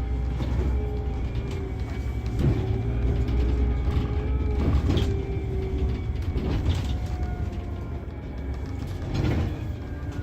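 Scania K360 coach running on the road: a steady low engine rumble with a whine that shifts in pitch every few seconds, and occasional short knocks and rattles.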